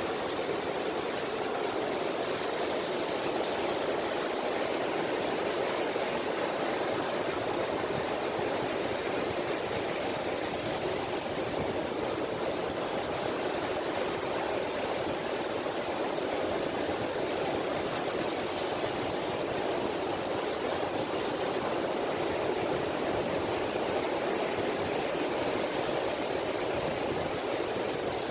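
Small, gentle sea waves (ripples) lapping and washing on a beach, a steady water wash that swells only slightly.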